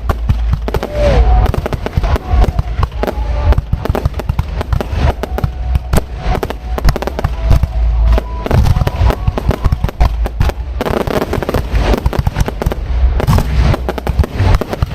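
Aerial fireworks display heard from close to the launch area: a dense, continuous barrage of shell bursts and crackling bangs, many per second.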